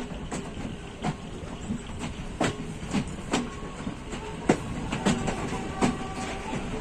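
Passenger train running along the track: a steady rumble with sharp, uneven clicks and knocks of the wheels and carriage, one or two a second.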